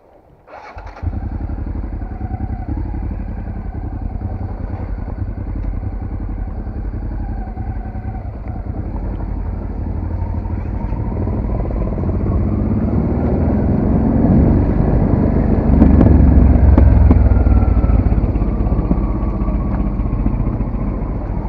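Dual-sport motorcycle running under way, a dense low engine rumble that comes in abruptly about a second in, grows louder through the middle and is loudest about three-quarters of the way through.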